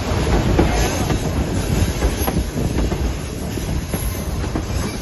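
White Pass & Yukon Route train running on its narrow-gauge track: a steady rumble of the rolling cars with scattered clacks of wheels over the rails.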